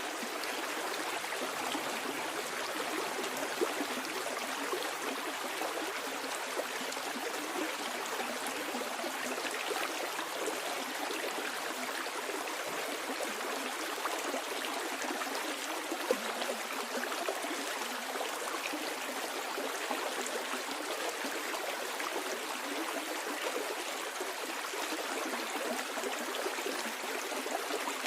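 A creek flowing downstream, water running and splashing steadily over stones.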